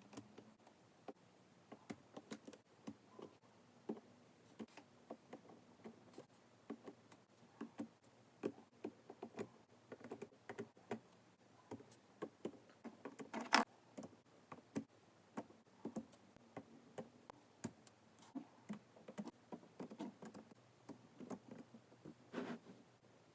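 Small neodymium magnetic balls clicking as they snap onto one another, a few irregular faint clicks a second, with one louder snap about halfway through.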